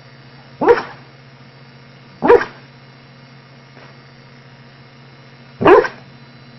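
A dog barking in its sleep: three short woofs, the first two about a second and a half apart and the third about three seconds later.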